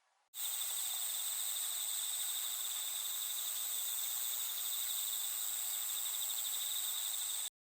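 Insect trilling steadily in a fast, even high-pitched trill, cricket-like; it starts suddenly and cuts off abruptly near the end.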